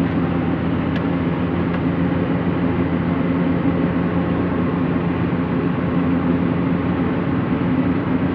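Heavy diesel engine running at a steady speed, with an even, unchanging drone throughout.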